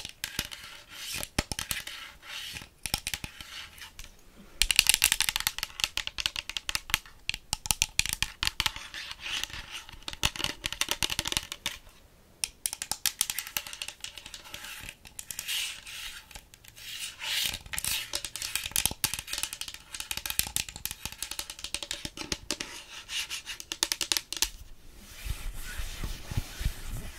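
Close-miked ASMR trigger sounds: a dense run of rapid, crackly clicks and taps, broken by a couple of short pauses, with a low rumble joining near the end.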